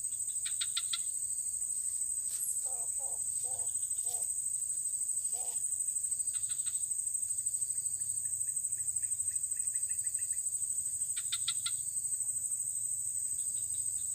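Steady high-pitched chorus of crickets trilling without a break, with scattered short repeated chirps and a few lower calls from other creatures.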